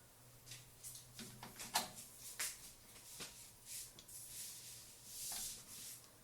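Scattered small clicks, taps and scrapes of hardware being handled, with one sharper click a little under two seconds in and a short rustle near the end, over a faint steady hum.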